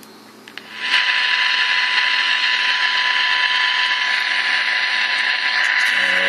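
Handheld radio receiver tuned to 96 MHz, its speaker playing steady interference noise: a hiss with a constant high tone running through it. It comes in loud suddenly about a second in. The interference is radiated by an FCD Pro+ software-defined radio dongle, possibly through its USB connection.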